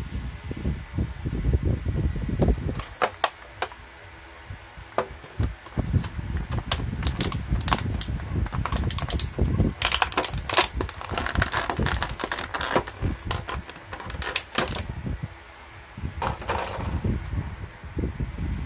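A run of sharp clicks and taps, irregular and dense through the middle, with a low rumble in the first few seconds.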